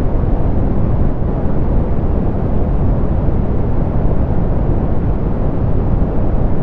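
Generated soft pink noise: a steady, even hiss weighted toward the low end, with the highs rolled off.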